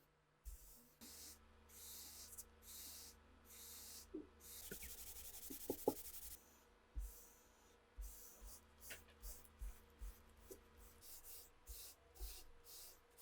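Faint repeated scratchy strokes of hand rubbing or sanding, each about half a second to a second long, with one longer, steadier hiss about four to six seconds in.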